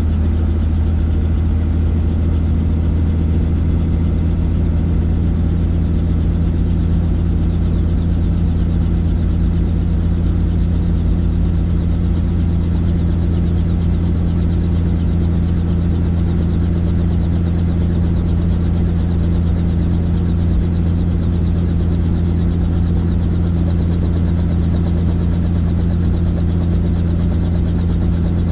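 Helicopter engine and rotors running, a loud steady drone with a deep hum.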